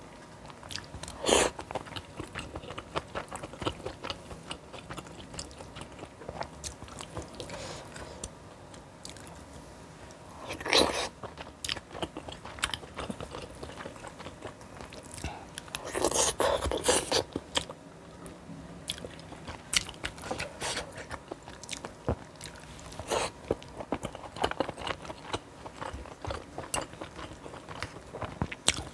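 A person chewing and crunching food, a steady run of small clicks and crackles. Louder sharp sounds stand out about a second in and about a third of the way through, with a longer loud patch just past halfway.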